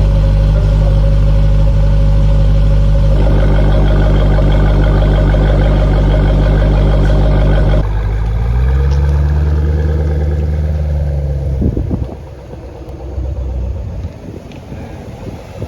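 Jeep Grand Cherokee Trackhawk's supercharged V8 running loudly through a Roar Racing exhaust in a steady drone. About eight seconds in the note changes, rises and holds for a few seconds, then drops away near twelve seconds, leaving a much quieter noise.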